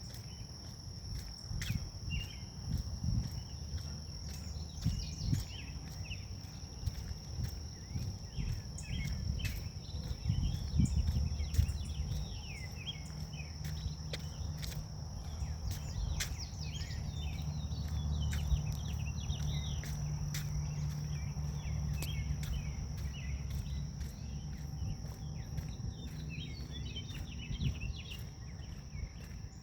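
Forest ambience: a steady high-pitched drone of grass insects with scattered bird chirps over it, light footsteps and clicks, and a low rumble of wind on the microphone, with a steadier low hum through the middle.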